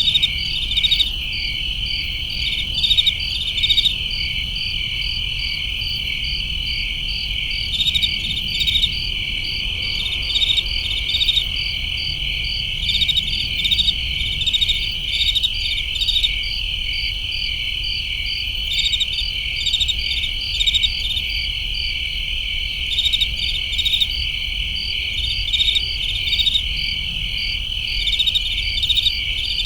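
Chorus of crickets trilling steadily, with repeated short bursts of chirps standing out over the continuous high trill, over a faint low rumble.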